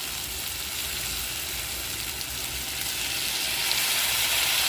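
Onion, tomato and spice masala sizzling in hot oil in a cooking pan, a steady frying hiss that swells louder about three seconds in.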